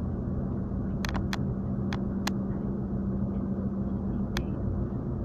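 Steady road and engine rumble inside a moving car's cabin, with a low hum. A handful of sharp, irregular clicks sound over it.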